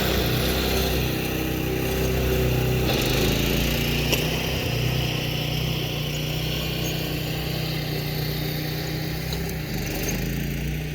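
Mini tractor's small single-cylinder Predator 212 engine running steadily, its note shifting slightly about three seconds in.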